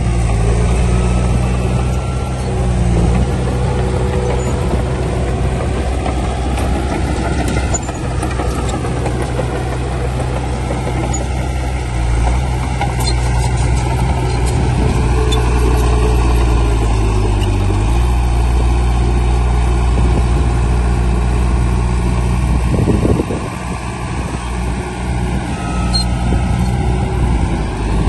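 Heavy construction machine's diesel engine running steadily, its speed shifting a few times and its level dropping for a few seconds near the end.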